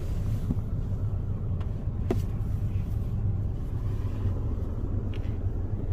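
Steady low rumble of a car driving, engine and road noise heard from inside the cabin, with a few light clicks, the sharpest about two seconds in.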